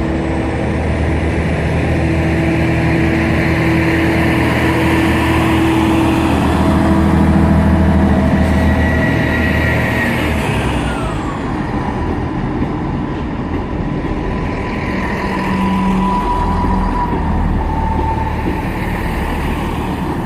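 Diesel multiple unit's underfloor engines powering up as the train pulls out of the station, growing louder to a peak about eight seconds in. A high whine falls away about ten seconds in, and the engines then run on more steadily.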